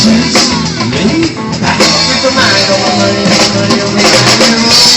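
Live band music with guitar and drum kit playing between sung lines.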